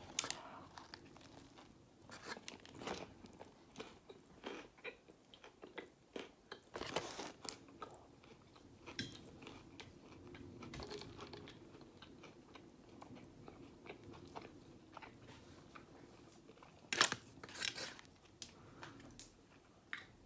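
Close-up eating of a KFC Zinger burger with its crispy fried chicken fillet: a bite into the burger, then crunching and chewing, with louder crunches now and then.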